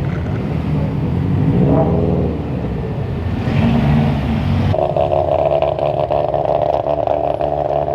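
Car engines running and revving as cars drive through a parking lot, rising and falling in pitch. About two-thirds in, the sound cuts abruptly to a single engine running steadily.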